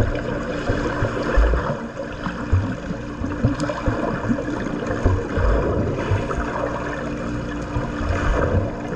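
Swimming-pool water noise: a continuous wash of moving, splashing water with irregular low thumps and a steady low hum underneath.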